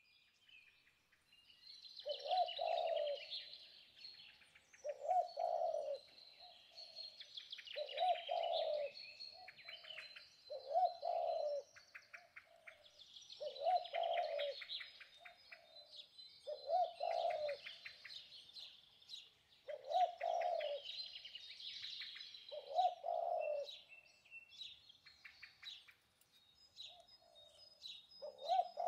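Birdsong: a low cooing call repeated about every three seconds over continuous high chirping and twittering of smaller birds.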